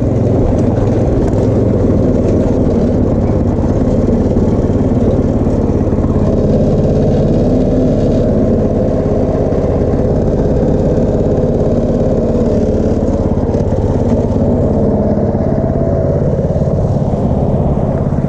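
Go-kart's small engine running steadily while the kart is driven.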